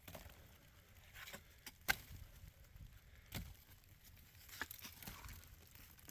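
Firewood being handled: scattered wooden knocks and rustling, with one sharp knock about two seconds in and a duller one about a second later.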